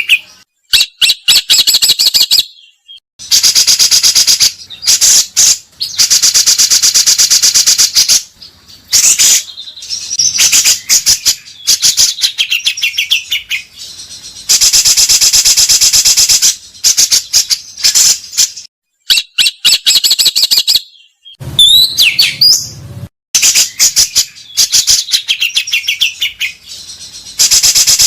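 Songbird singing in harsh, rapid rattling trills, a series of loud bursts a second or two long with short pauses between. A couple of rising whistled notes come about two-thirds of the way through. This is the rough, long 'tembakan' phrasing kept as a tutor song for competition birds.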